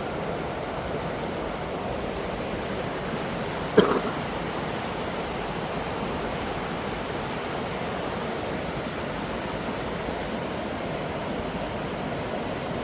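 Waterfall rushing steadily, with one sharp knock about four seconds in.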